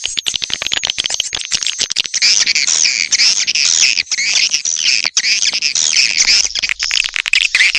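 Swiftlet call-sound lure recording: a fast run of sharp clicks, then from about two seconds in a dense chorus of shrill, overlapping twittering calls.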